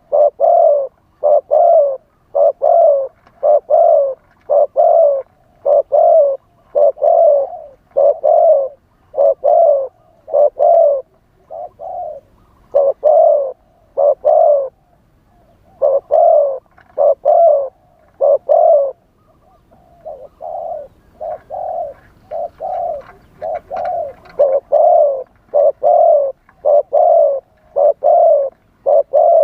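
Spotted dove cooing over and over: a long run of low coos in groups of two or three, with short breaks between the groups. This is the bird's wild-style calling, used to lure other spotted doves.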